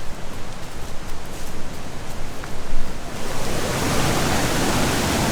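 Steady rush of Ero Omola Waterfall's falling water, coming in abruptly and filling the sound about three seconds in; before that, an uneven low rumble of wind and handling noise on the microphone.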